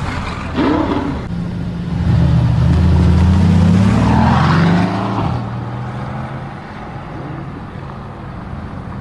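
Mercedes-AMG GT S twin-turbo V8 with an aftermarket ASG exhaust, running and then accelerating hard about two seconds in. Its note rises in pitch for about three seconds, then drops back to a steady run.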